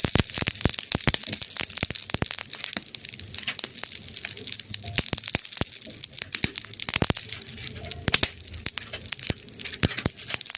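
Wood fire crackling: irregular sharp snaps and pops over a steady hiss, with a couple of louder snaps about seven and eight seconds in.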